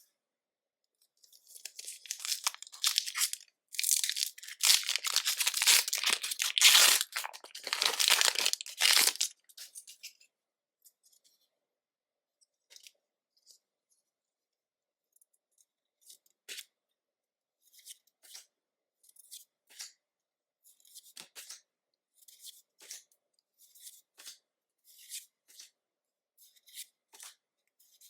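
A foil Pokémon booster pack wrapper being torn open and crinkled, loud and continuous for about eight seconds. It is followed by a run of soft, short flicks as the cards are handled.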